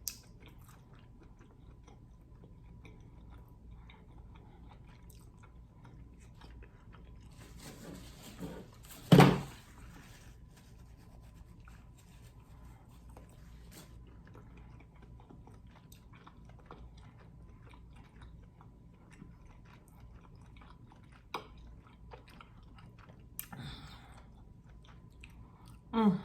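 Close-miked chewing and biting of king crab meat in garlic butter sauce, soft wet mouth sounds with many small clicks. One loud, short crack a little after nine seconds in.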